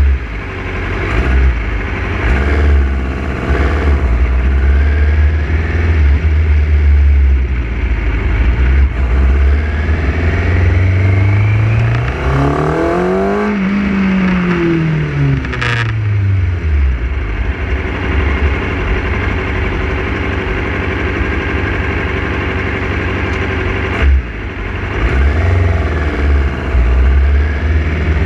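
Motorcycle engine running under way as the bike pulls out and rides along the street. About halfway through, the engine revs up and falls back, and there is a sharp click late on.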